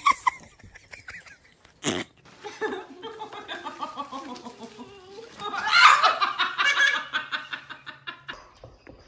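A person laughing hard in quick repeated ha-ha pulses, loudest about six seconds in, after a short sharp sound about two seconds in.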